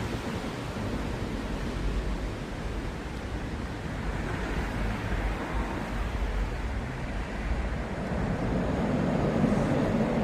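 Steady rushing outdoor noise with a low rumble, swelling near the end.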